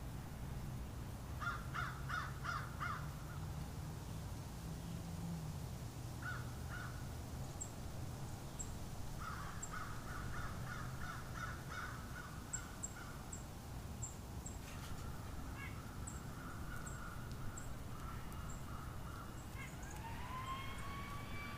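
Crows cawing in several quick runs of repeated harsh calls, with faint high chips from small birds and a low steady rumble underneath. Near the end a steady rising tone comes in.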